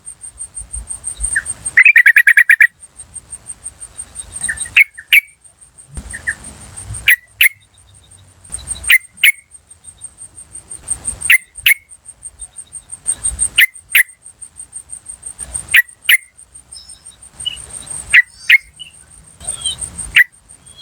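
Yellow-vented bulbul (trucukan) giving short, sharp call notes, mostly in pairs about every two seconds, over a continuous high, fast-pulsing insect trill.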